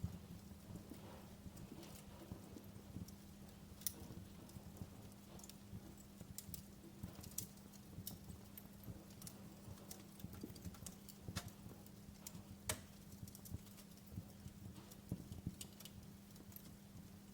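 Wood fire crackling: irregular sharp pops and snaps over a low rumble, with a faint steady hum underneath.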